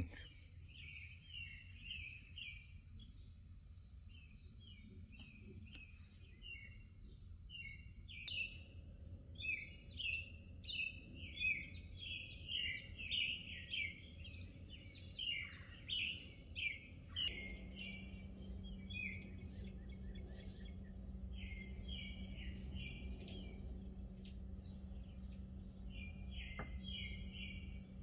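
Birds chirping in quick runs of short, high notes, thickest around the middle. About two-thirds in, a low steady hum comes in beneath them.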